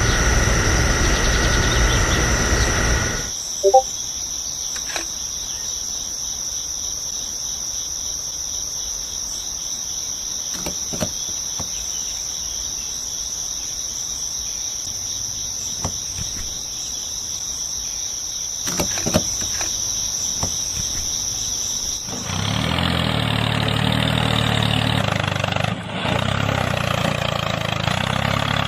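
A steady, high-pitched insect buzz with a slight pulse. A small motor runs at the start and again near the end, where a low hum takes over.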